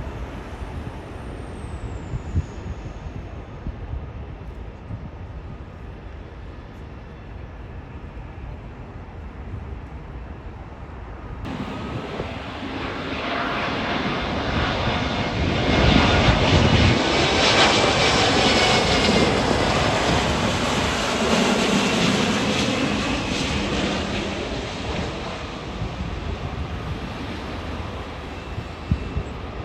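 Jet airliner passing, its engine noise building to a peak about halfway through and slowly fading, with a faint whine over the rumble.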